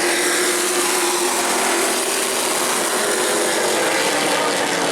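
Race truck engines running on the track, a steady loud drone with a dense rasping noise over it.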